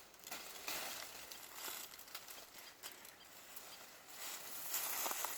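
Light, irregular rustling and crackling of dry leaves and brush, a little louder near the end.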